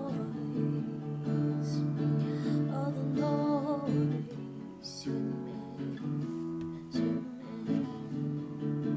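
Acoustic guitar music, strummed, with a singing voice briefly about three seconds in.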